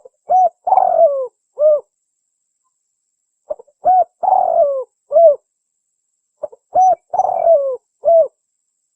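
Spotted dove cooing: three matching phrases about three seconds apart, each a short note, a longer note falling in pitch, and a short closing note. This is the tekukur lure call used to draw in wild doves.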